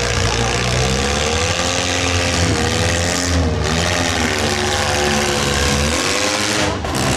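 Compact demolition derby cars' engines running and revving, their pitch rising and falling over a steady loud noise.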